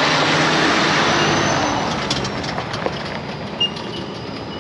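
Steady rush of falling water from a rainforest waterfall, swelling in at the start and easing off a little, with a few faint clicks.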